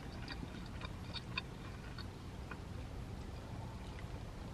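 A person chewing a mouthful of pasta: soft, scattered mouth clicks and ticks, one a little louder about a second and a half in, over a low steady hum.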